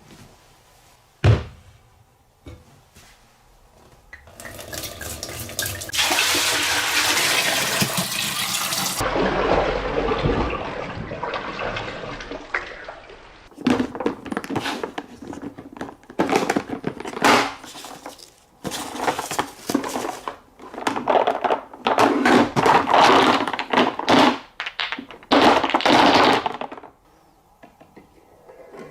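Marbles rattling and clicking as they roll down plastic marble-run wave slopes, in dense runs of quick clacks. Earlier there is a stretch of rushing, splashing water that stops abruptly.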